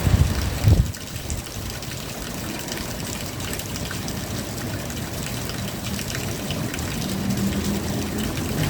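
Steady rain falling, with water trickling and gushing as runoff. Two low thumps come in the first second, and a faint low hum joins near the end.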